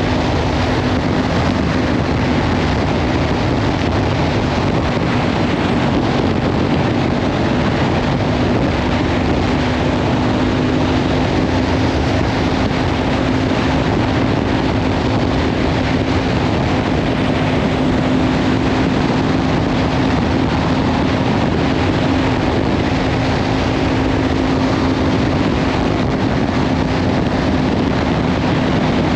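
Kawasaki Ninja 500 parallel-twin engine with a LeoVince slip-on exhaust, running at a steady cruise with its note holding level. Heavy wind noise on the microphone covers much of it.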